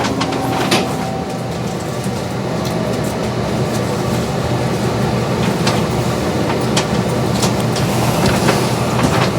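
Kintetsu 22600 series electric train with Mitsubishi IGBT-VVVF drive, heard from inside the car as it pulls away and gathers speed. A steady rumble of motors and wheels grows slightly louder, with scattered sharp clicks from the wheels over rail joints and points.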